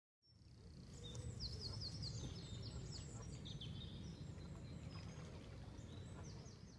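Outdoor ambience of small birds chirping and twittering in quick repeated notes over a steady low rumble. It fades in just after the start and cuts off near the end.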